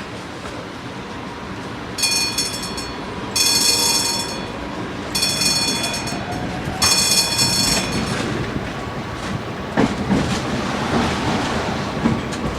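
Tram bell rung four times in quick succession, each ring about a second long. Then the tram rumbles along the rails, with a couple of sharp clicks over the rail joints.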